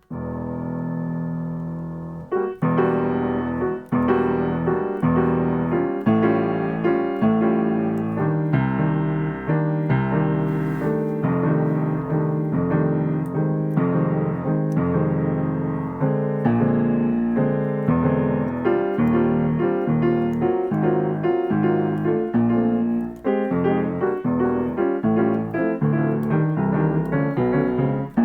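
Piano practising a jazz comping rhythm pattern: one chord is held for about two seconds, then short chords are struck in a steady, repeating rhythm over changing bass notes.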